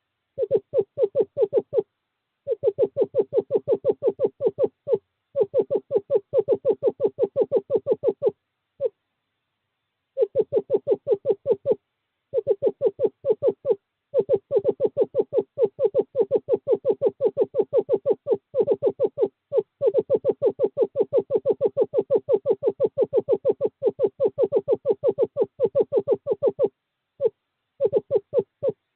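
Screech owl trilling: long runs of rapid notes, about ten a second, held on one low, steady pitch, repeated again and again with short pauses between runs. This is the male's courtship trill, calling a female to the nest box.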